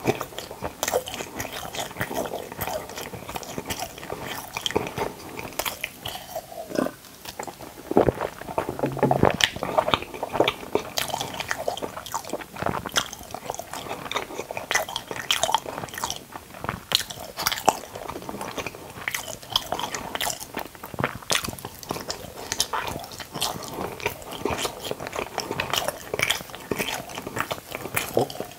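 Close-miked chewing of a soft white log-shaped food: a steady run of irregular mouth clicks and smacks.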